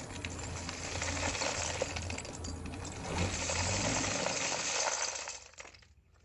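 Dense metallic clinking and rattling over a low hum, fading out about five seconds in.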